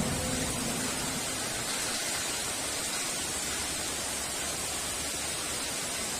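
Heavy rain falling as a steady, even hiss, with the last of a thunder rumble dying away in the first half second.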